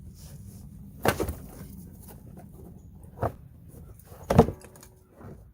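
Knocks and clatter from hand tools working the plastic fender-well liner loose: a cluster about a second in, a single knock a little past three seconds, and the loudest, briefly ringing clatter just past four seconds.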